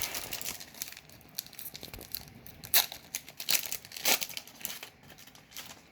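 Foil booster-pack wrapper being torn open and crinkled, a run of short sharp crackles, loudest around the middle.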